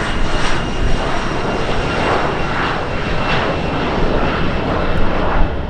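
Aircraft engine noise from a fixed-wing airplane, steady and loud.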